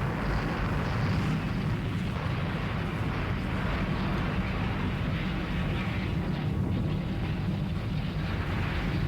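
A steady, low rumbling roar from the soundtrack of an animated show's opening, with no music or speech over it.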